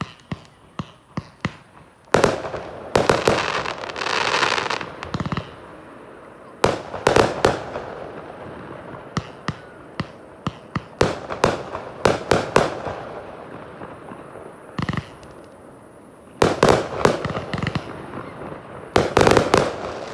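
Fireworks display: shells bursting in sharp bangs, a few single reports at first, then dense volleys with crackling after them, separated by short lulls.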